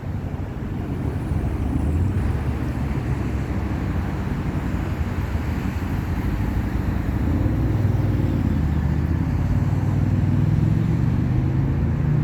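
Freeway traffic noise, with a vehicle engine's hum growing louder and rising slightly in pitch over the second half.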